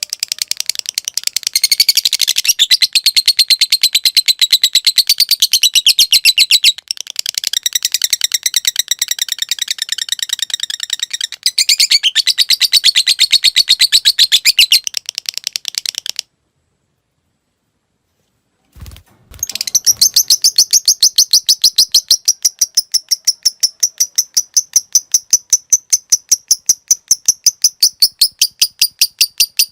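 A lovebird's long 'ngekek' chatter: a fast, even string of high, sharp notes held for many seconds at a stretch. It breaks off twice briefly, then cuts out completely for a few seconds past the middle. A short low knock comes as the chatter starts again.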